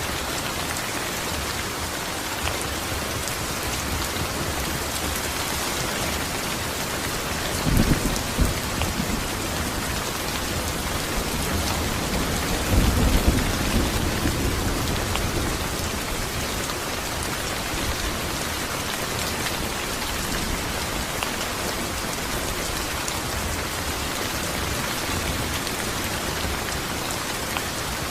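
Steady rain falling, with thunder rumbling twice: briefly about eight seconds in, and longer a few seconds later.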